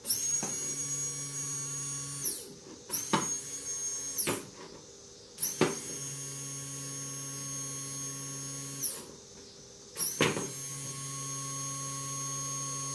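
Quantum aftermarket electric fuel pump for a Kawasaki Vulcan 1600, bench-run on 12 volts and switched on four times: each run is a high-pitched whine that rises as it spins up, holds steady, then winds down when cut off. It is the whine the owner finds awful noisy.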